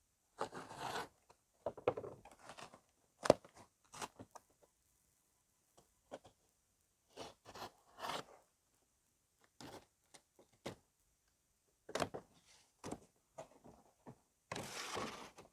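Cardboard box of plastic wheel well liners being opened and unpacked by hand: scattered bursts of tearing, scraping and crinkling with short gaps between, a sharp knock about three seconds in, and a longer rustle near the end.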